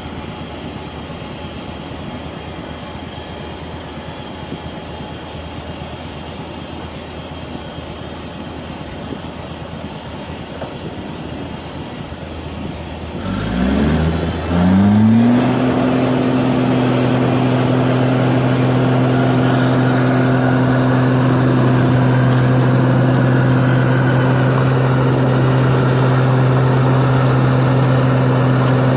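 New Holland combine harvester engine running low and steady. About halfway through it revs up in two quick rises, then holds a loud, steady high-speed run.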